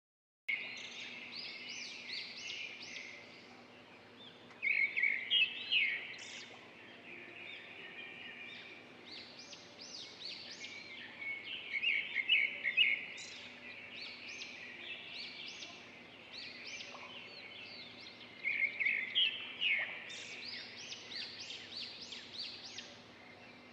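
Many small birds chirping and twittering together, a dense chorus of short, rapid high notes, with louder bursts of calls about five, twelve and nineteen seconds in.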